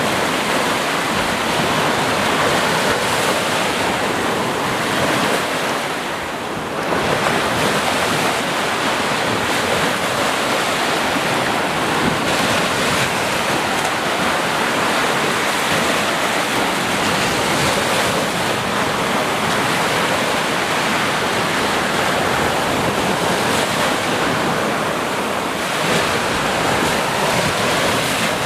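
Sea surf: a continuous wash of breaking waves, with a brief lull about six seconds in before the next wave surges.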